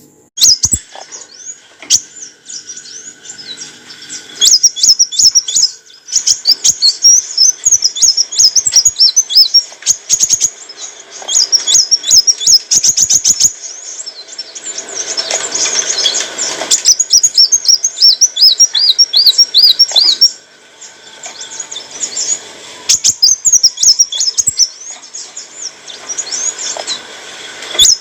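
Kolibri wulung sunbird singing a fast, high-pitched twittering song of rapid chirps and quick trills, broken by short pauses.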